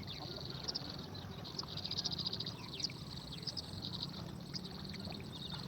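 Small birds chirping in short, high-pitched calls over a steady, rapid high trill that stops and starts, with a low background hum.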